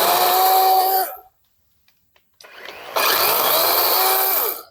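Chainsaw running at full throttle in two stretches, the first stopping about a second in and the second starting again around two and a half seconds in, its pitch climbing slightly, before cutting off near the end.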